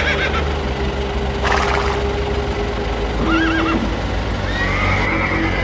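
Horse whinnying: a quavering call trailing off at the start, a short one past the middle and a longer one near the end, over a steady low hum.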